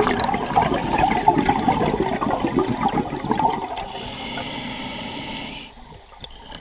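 Scuba diver breathing underwater through a regulator: a gurgling rush of exhaled bubbles that fades, then a steady hiss of an inhale from about four seconds in to near six seconds.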